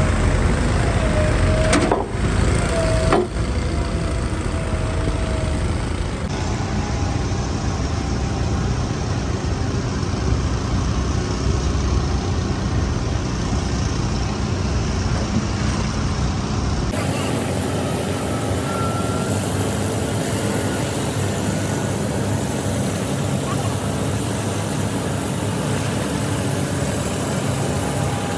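Heavy engine running steadily, with two sharp knocks about two and three seconds in.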